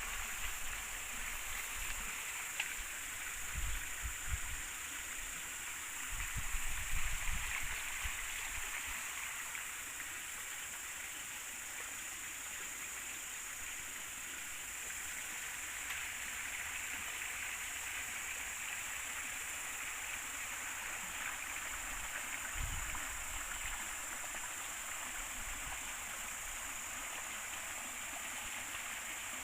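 Clear river water flowing, a steady rushing and gurgling, with a few low thuds about four, seven and twenty-two seconds in.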